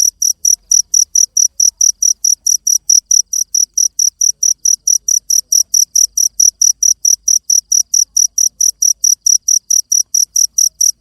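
Cricket chirping steadily, a high-pitched pulse repeating evenly about five times a second.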